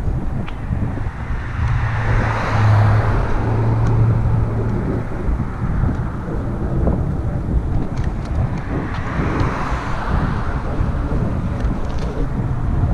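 Wind rumbling on the microphone during a bicycle ride beside a road, with motor traffic swelling past about two seconds in and again near ten seconds.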